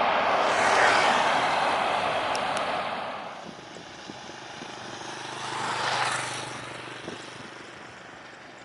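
Jet airliner taking off close by: a loud rushing engine roar that peaks about a second in and then fades away. A smaller, shorter swell of noise rises and falls around six seconds in.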